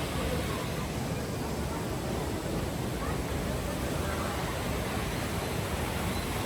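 Steady rushing of the canyon stream's water, an even unbroken noise.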